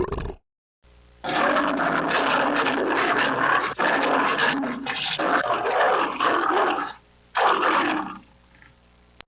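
An animal's rough, noisy vocal call lasting several seconds, followed by a shorter second call near the end.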